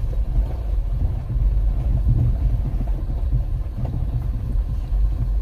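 Pickup truck driving slowly on a gravel backroad: a steady low rumble of engine and tyres.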